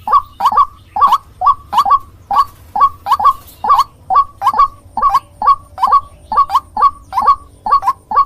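White-breasted waterhen (ruak-ruak) calling: a fast, steady run of harsh repeated notes, about two to three a second.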